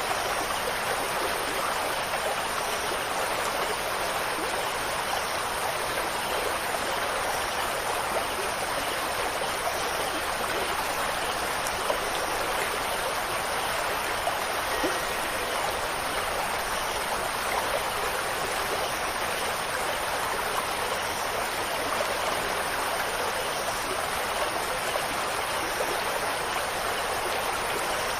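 Steady rushing water, an even noise without pitched tones, with a few faint ticks of drops here and there.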